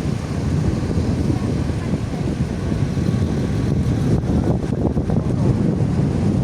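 Wind buffeting the phone's microphone, a steady low rumble.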